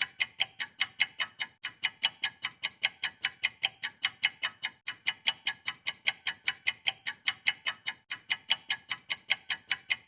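Rapid, even ticking, about four ticks a second, each tick short and bright, with a brief skip about every three seconds.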